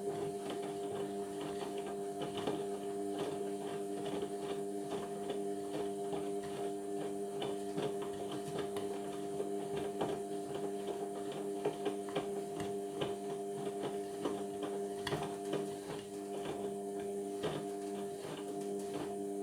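Indesit washing machine running: a steady hum with irregular clicking and rattling over it.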